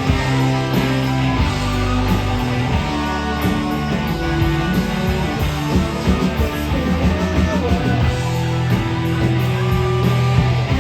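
Live rock band playing: electric guitars, bass and drum kit, with no singing.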